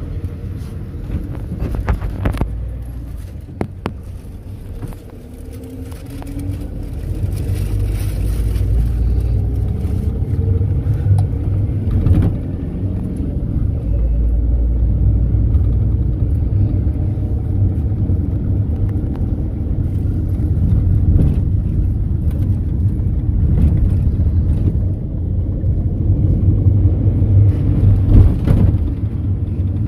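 Mercedes-Benz Sprinter minibus heard from inside the passenger cabin while driving: a low engine and road rumble with scattered rattles and knocks. About six to seven seconds in it gets louder, with a faint rising whine as the bus picks up speed.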